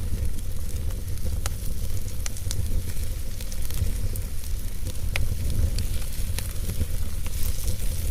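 Fire burning in a fireplace: a steady low rumble and hiss with scattered sharp crackles and pops.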